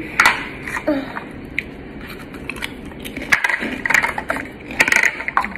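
Close-miked chewing of a mouthful of food, with irregular wet clicks and crunches from the mouth.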